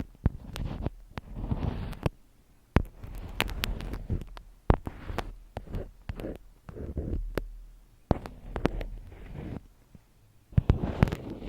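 Close-miked ASMR handling sounds: irregular bursts of rustling and crackling with sharp clicks and taps, broken by short pauses.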